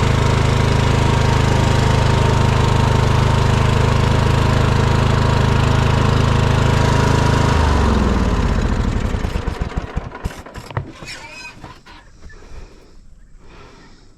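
A small engine running at a steady speed, then switched off about eight seconds in, slowing and dying away over a couple of seconds.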